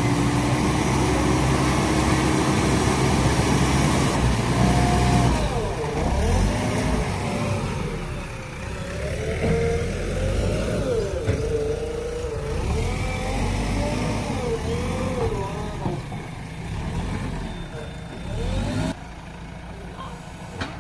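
JCB backhoe loader's diesel engine working under load, its pitch rising and falling repeatedly as it revs up and eases off. The sound drops suddenly in level near the end.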